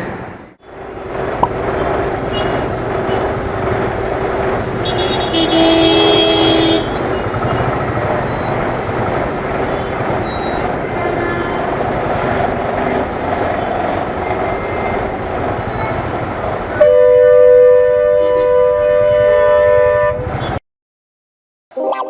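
Road noise from a motorcycle riding in city traffic, with engine and wind noise throughout. A vehicle horn honks briefly about five seconds in, and a long, loud horn blast sounds from about seventeen to twenty seconds in.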